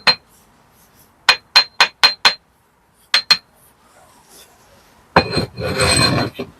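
Steel brick trowel tapping bricks down into their mortar bed: sharp ringing clinks in quick runs of two to five, then a longer rough clatter near the end.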